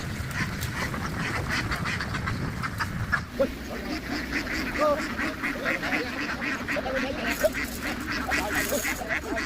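A large flock of farmed ducks quacking continuously, many short calls overlapping. Under them a low rumble runs for about the first three seconds and then stops.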